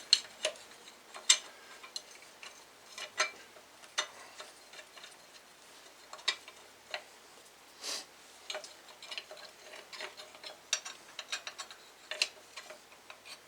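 Hand tools at work on engine bracket bolts: irregular metallic clicks and clinks, with runs of quick ratchet-wrench clicking that grow denser in the second half.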